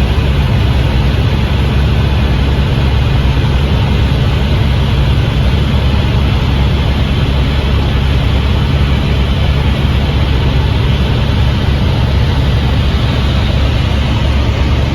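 Helicopter running close by: a loud, steady rotor and engine noise with a heavy deep rumble.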